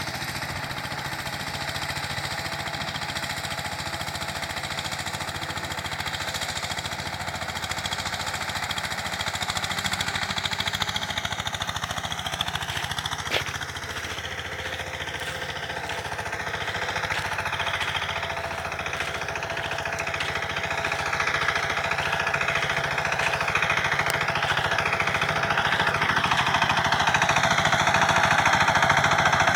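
Power tiller engine running steadily with a fast, hard chugging knock, growing louder over the second half.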